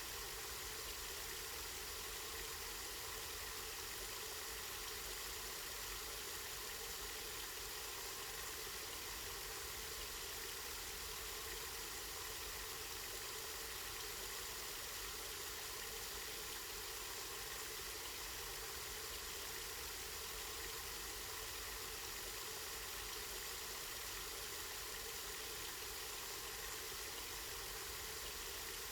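Spring water flowing and splashing in a steady, even rush.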